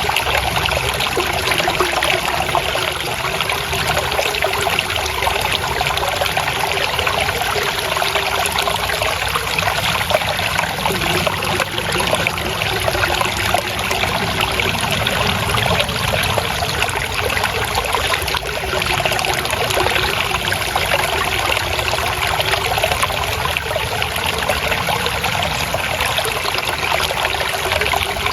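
Water flowing and trickling steadily, a continuous babbling wash of many small splashes with no pauses.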